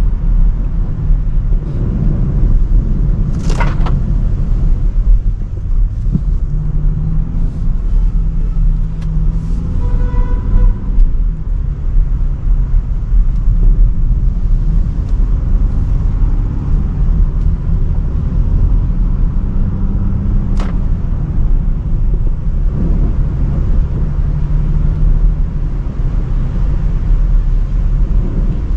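Range Rover Sport driving, a steady low rumble of engine and tyre noise on a wet road. A car horn sounds briefly about ten seconds in, and brief hissing swishes pass about three seconds in and again near twenty seconds.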